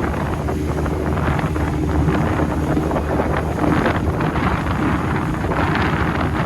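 A boat's motor running steadily under way, with strong wind buffeting the microphone.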